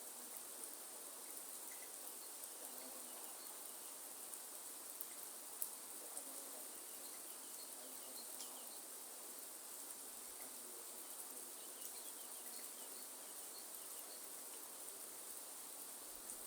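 Faint rainforest ambience: a steady high-pitched insect drone over an even hiss of light rain, with scattered small bird chirps and a couple of sharp ticks about five to six seconds in.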